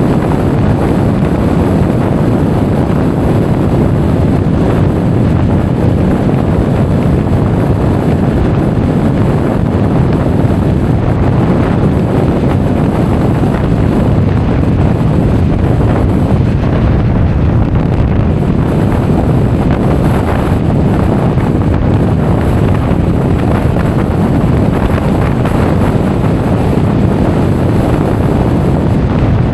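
Steady, loud wind noise buffeting an action camera's microphone while riding a Honda Forza 350 scooter.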